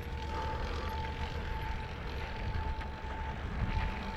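Riding noise from a mountain e-bike on a dirt trail: wind rumbling on the microphone and tyres on the ground, with a faint steady whine.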